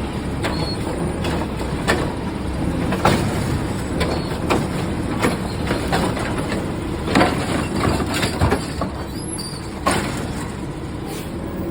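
Garbage truck's diesel engine running steadily, with repeated sharp metallic clanks and knocks over it.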